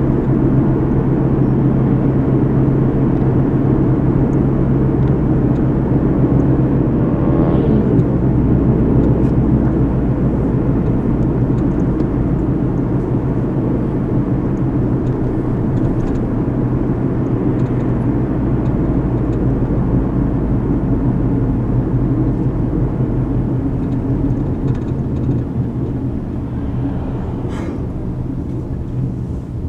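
Steady road noise of a car heard from inside the cabin while driving: a deep rumble of tyres and engine with a low hum, a brief swell about eight seconds in, growing quieter near the end.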